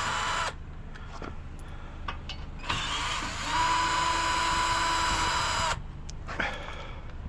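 Power drill running in two bursts, a short one that stops about half a second in and a steady whine of about three seconds starting just before the 3-second mark, with light clinks of metal between. It is backing screws out of a metal bed frame to take it apart.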